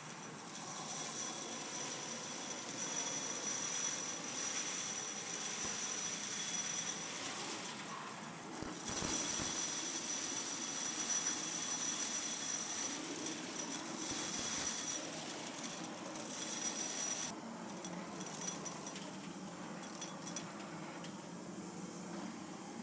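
Industrial vacuum cleaner running at full suction: a steady rush of air with a high, steady whine, as it sucks up loose stones. About three-quarters of the way through, the whine drops away sharply and a quieter rush carries on.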